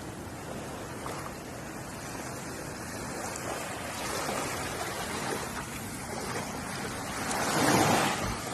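Ocean waves washing onto a shore: a steady wash of surf, with one louder wave surging in near the end.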